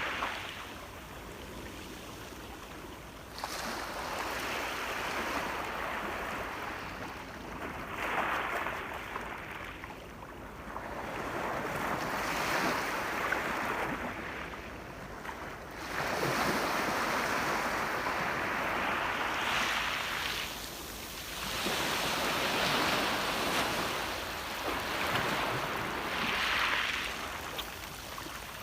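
Ocean waves breaking and washing up the shore, the surf swelling and falling back every few seconds.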